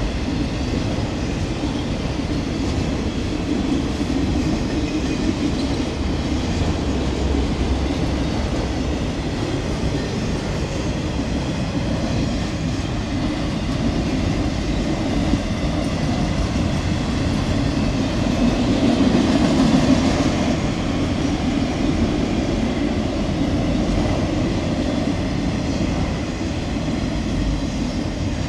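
Freight train of enclosed autorack cars rolling past at a steady pace: a continuous rumble and rattle of steel wheels on the rails, swelling briefly about two-thirds of the way through.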